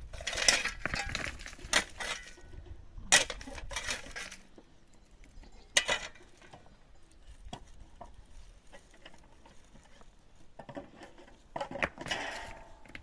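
A few sharp knocks and clinks of hard objects striking each other, spaced a second or two apart in the first half, followed by quieter scraping and a busier rustling patch near the end.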